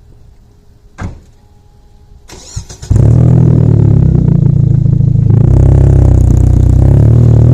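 Mazda Protege5's four-cylinder engine running through a new 2.5-inch header-back exhaust with a Greddy RS muffler and Vibrant resonator. After a quiet start with a single click about a second in, the exhaust comes in suddenly and loudly about three seconds in and holds a steady low note.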